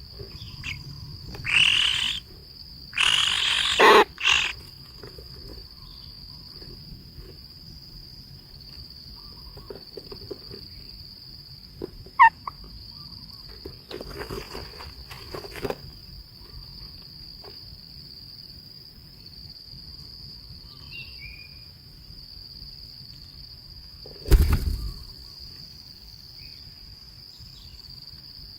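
A steady, high, insect-like trill, as from crickets, runs on without a break. Over it come several loud, harsh, noisy bursts in the first four seconds, a short sharp chirp around twelve seconds in, and a single heavy thump about twenty-four seconds in.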